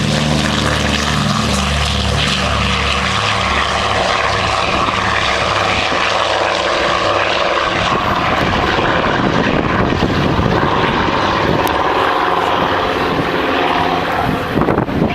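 The twin Pratt & Whitney R-1830 Twin Wasp radial engines of a Canadian Vickers PBV-1A Canso (PBY-5A Catalina) running at takeoff power during the takeoff roll, loud and steady. Low engine tones fill the first half, then give way to a broader rushing propeller noise about halfway through.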